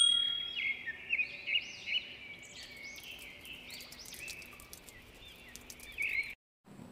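Small birds chirping, many short rising-and-falling calls one after another, cutting off suddenly near the end. A bright ding rings at the very start.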